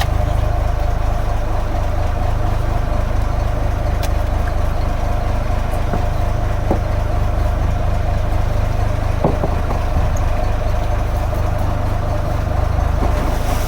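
Fishing boat's engine running steadily at idle, an even drone with a constant hum.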